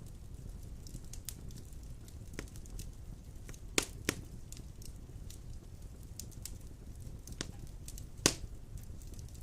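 Wood fire of large logs burning in a stone fireplace: a steady low rumble of flame with constant light crackling. Sharp pops stand out, two in quick succession about four seconds in and the loudest one near the end.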